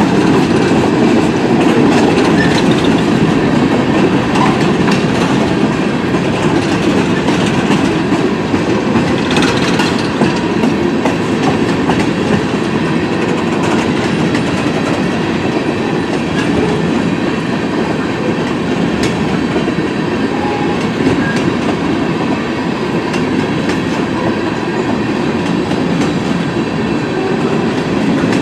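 Train cars rolling steadily past: a continuous rumble of steel wheels on rail, with scattered clicks as wheels cross rail joints.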